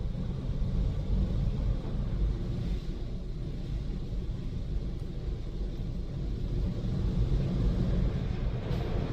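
WashTec SoftCare SE car wash's grey SoftTec brushes spinning and scrubbing over the car. Heard from inside the cabin as a steady low rumble.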